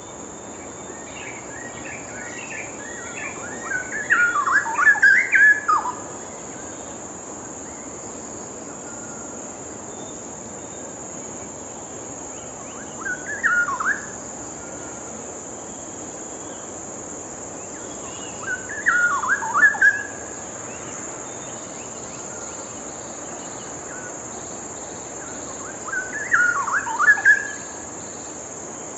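Straw-headed bulbul (cucak rawa) singing four loud, rich warbling phrases several seconds apart. The first is the longest, about five seconds. Under them is a steady high-pitched drone.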